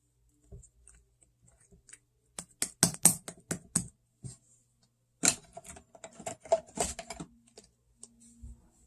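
Slime being pressed and squished by hand, giving two runs of sharp, rapid clicking pops, each lasting a second or two, with a short pause between them.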